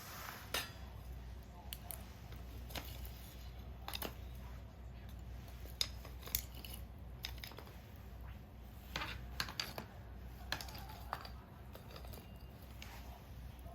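Wood fire in a homemade stainless-steel secondary-combustion fire pit, crackling with irregular sharp pops and clicks over a low steady rumble.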